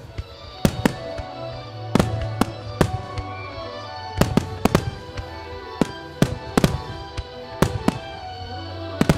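Starmine fireworks barrage: about a dozen sharp bangs of shells bursting, coming unevenly and sometimes in quick pairs, with music playing underneath.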